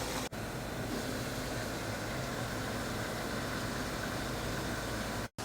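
Steady noise of a pot of birds and vegetables boiling in broth on a gas stove, burner and bubbling together with a low hum.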